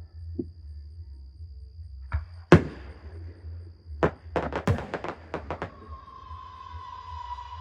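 Fireworks going off: a few bangs, the loudest about two and a half seconds in, then a quick run of sharp cracks between about four and five and a half seconds, over a steady low rumble. A steady tone sets in near the end.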